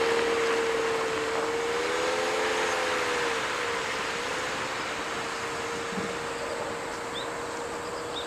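Toyota Noah ZRR75W's four-cylinder engine through an HKS ES Premium aftermarket muffler, a steady exhaust drone that wavers slightly in pitch early on and slowly gets quieter.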